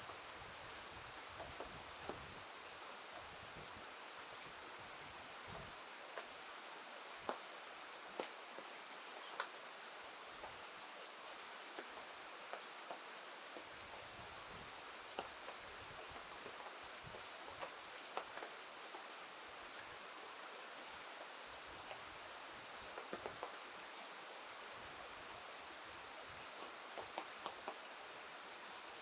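Steady rain falling, with scattered sharp ticks every second or so.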